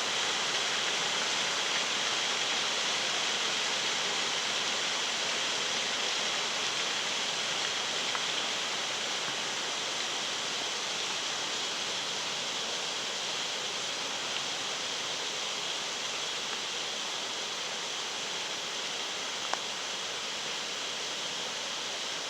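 Rushing stream water, a steady unbroken roar that eases very slightly toward the end.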